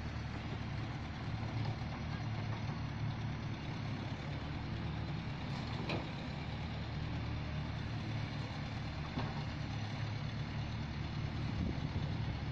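Caterpillar 312C hydraulic excavator's diesel engine running steadily, with a faint tick about six seconds in.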